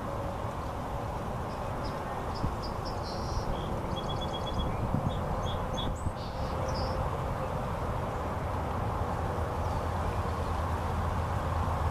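Outdoor ambience: a steady low background rumble, with a small bird's high chirps and quick trills between about two and seven seconds in.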